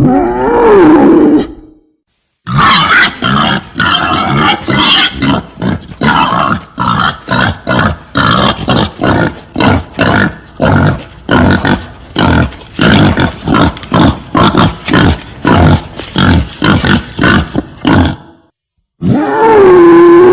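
Wild boar mating calls: a wavering squeal-like call, then a long fast series of short grunts, about two or three a second, with another drawn-out wavering call starting near the end.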